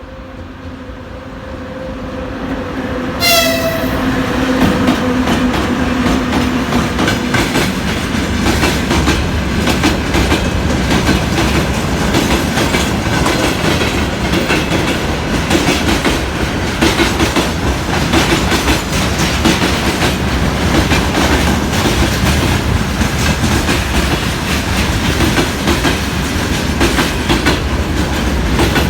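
VL80S electric locomotive approaching with a steady low tone, giving a short high whistle blast about three seconds in, then passing close at the head of a freight train, its wheels clattering over the rail joints.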